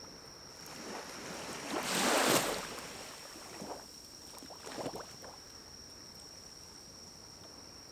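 Pine cones burning in a small wood-burning stove, crackling and popping a few times, with a brief rushing swell of flame noise about two seconds in.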